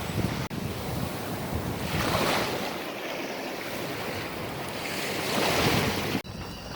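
Surf washing on a beach, with wind buffeting the microphone; two waves swell up, about two seconds in and again near the end.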